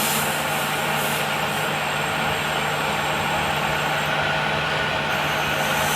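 A machine running steadily with a constant low hum and a broad noise over it.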